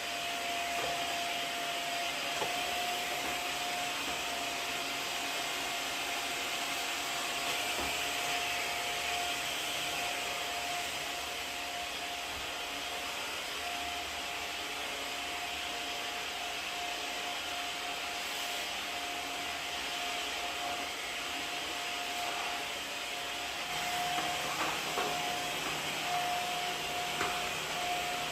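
Vacuum cleaner running steadily, a continuous rush of air with a steady whine, with a few light knocks and bumps near the end.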